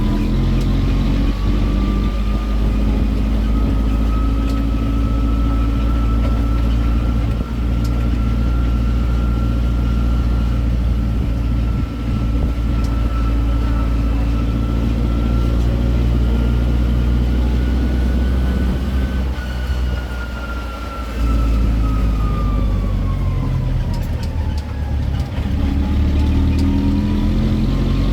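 Tour road train's engine running steadily under way, with a high whine that slowly rises and falls in pitch. The engine eases off briefly about twenty seconds in.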